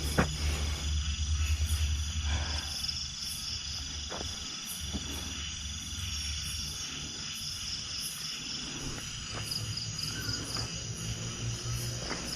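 Night chorus of insects such as crickets: steady high trills and pulsing chirps that repeat over and over, above a low rumble.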